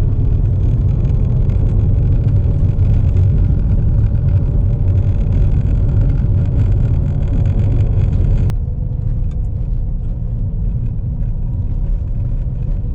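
2014 Chevrolet Impala driving at road speed, a steady low road-and-tyre rumble heard inside the cabin, on a test drive to check that the rear-wheel howl is cured. The rumble drops a little, suddenly, about eight and a half seconds in.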